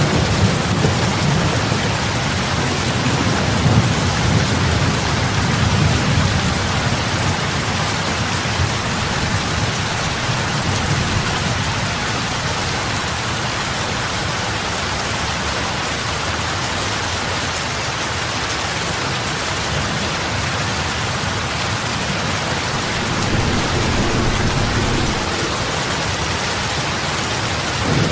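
Steady heavy rain falling on open lake water, a dense hiss of big drops splashing. A low rumble underneath swells during the first several seconds and again near the end.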